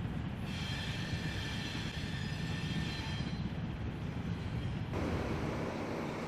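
A diesel switcher locomotive and rail cars rolling with a steady low rumble, and a high ringing squeal from the wheels on the rails for a few seconds. About five seconds in, the sound cuts abruptly to a steady engine drone with one constant hum.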